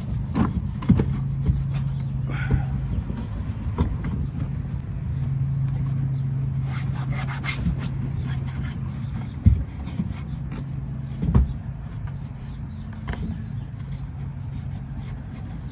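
Cloth rag rubbing chrome polish over a chrome exhaust tip: scratchy rubbing strokes with a few sharp knocks, the clearest about two-thirds of the way through. Under it runs a steady low hum that swells twice.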